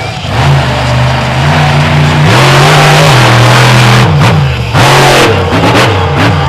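Monster truck engine revving hard as the throttle is repeatedly opened and backed off, its pitch climbing and falling several times.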